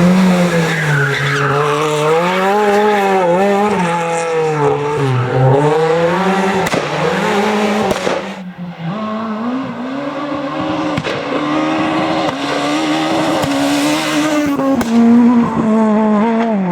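Rally car engine revving hard, its pitch rising and falling through gear changes and lifts, with tyre squeal as the car slides through a corner. About halfway through the sound drops away briefly, then an engine is heard pulling hard again.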